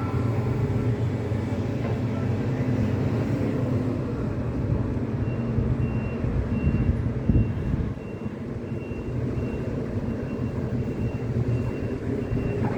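Heavy diesel demolition plant running steadily. From about five seconds in, a reversing alarm beeps about twice a second, and there is a low thud near the middle.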